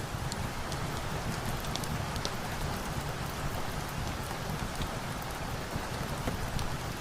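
Steady rain falling, an even hiss with a low rumble, with scattered sharp little ticks throughout.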